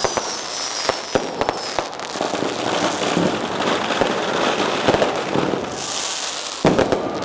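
Lunar New Year firecracker strings going off in a dense, continuous rapid crackle of small bangs, with one sudden louder bang near the end.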